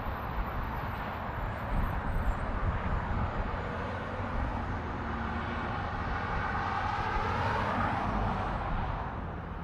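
Brightline passenger train passing by with a steady rushing noise that swells about two-thirds of the way through, then fades near the end.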